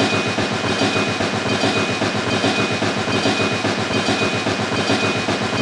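A small motor running steadily with a fast, even rattle over a low hum.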